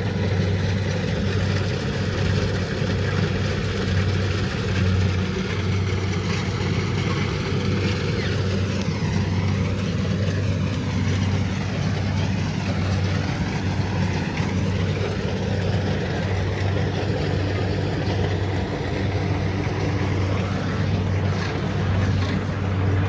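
Kubota DC70 Pro combine harvester running steadily under load, its engine a constant low hum under the clatter of the machinery.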